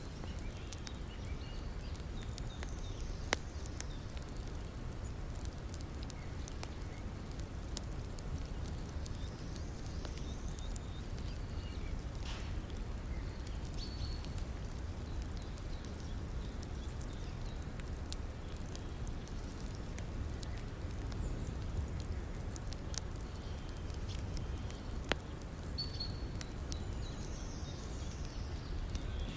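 Wood fire crackling, with scattered sharp pops, two of them louder about three seconds in and near the end, over the steady low rush of river water.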